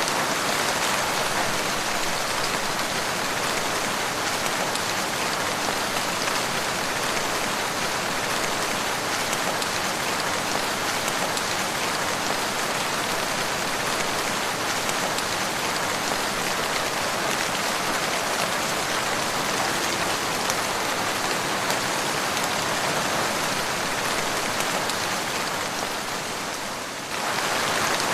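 Steady, continuous rain falling, a dense even patter and hiss with no breaks. The level sags slightly just before the end and then comes back up.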